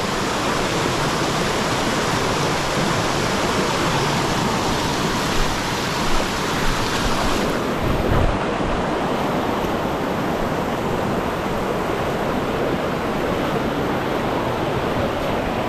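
Mountain stream water rushing steadily over rocks, a dense even hiss; the brightest part of the hiss drops back about halfway through, and there are a few brief soft bumps near the middle.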